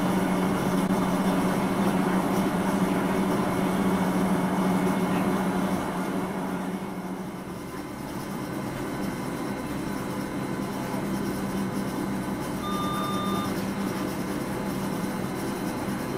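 Gornergrat Bahn electric rack-railway train running, heard from the driver's cab: a steady low hum that fades about six seconds in and then slowly builds again. A short high tone sounds once, about three seconds before the end.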